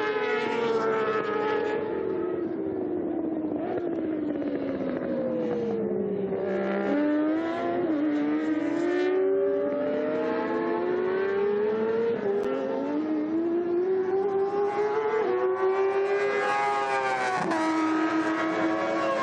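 Several superbike racing motorcycles at full race speed, their engines revving up and down through the gears, with more than one engine heard at once and the pitch climbing and falling repeatedly.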